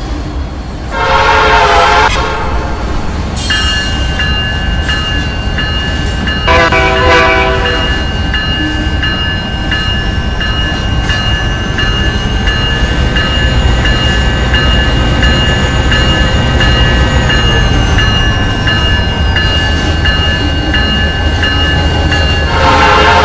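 Train passing with a steady low rumble, its horn sounding three short blasts: one about a second in, another about seven seconds in, and one at the very end. A steady high-pitched squeal runs under the rumble from a few seconds in.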